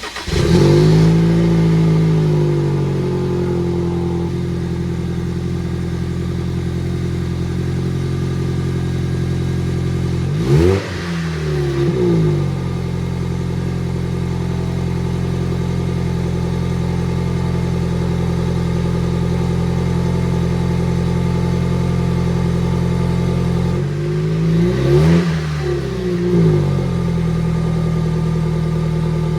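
Toyota Tacoma's 2.4-litre turbocharged four-cylinder catching on a cold start, heard at the tailpipe: a short surge as it fires, settling into a steady fast cold idle. Its tone wavers briefly twice, about ten seconds in and again around twenty-five seconds.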